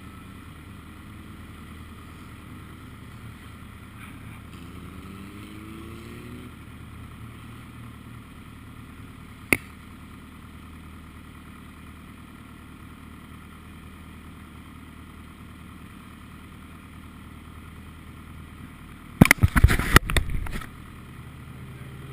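Formula Ford race car engine idling steadily, with another engine rising in pitch about four to six seconds in. A single sharp click comes near the middle, and a loud, rough, crackling burst lasting about a second and a half comes near the end.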